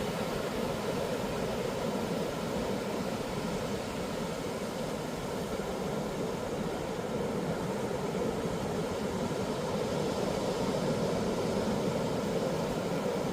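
Steady roar of ocean surf breaking on a beach, swelling slightly near the end.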